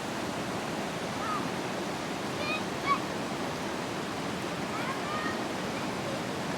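Steady rush of a waterfall and fast-flowing water, with a few faint short calls over it, one a little louder about three seconds in.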